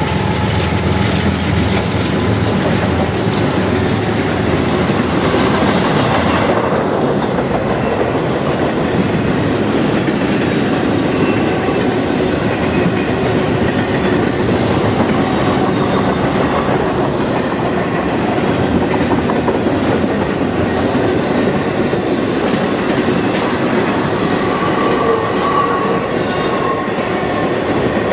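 Norfolk Southern freight train cars rolling past, a steady, loud rumble of wheels on rail with faint wheel squeals, clearest near the end.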